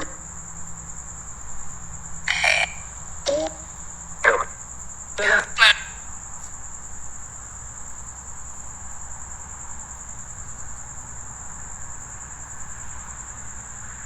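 Crickets trilling in a steady high-pitched chorus, with a handful of short, louder calls between about two and six seconds in.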